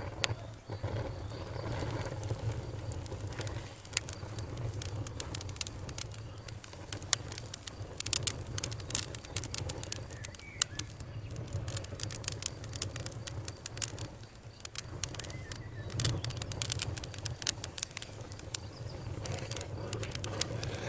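Campfire burning: wood crackling with frequent sharp pops over a low, steady rumble of the flames, the pops coming thicker about halfway through.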